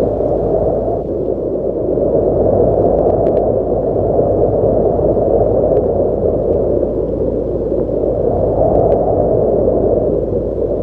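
Strong wind blowing loud and steady, a dense rushing noise that swells and eases a little, with a few faint ticks.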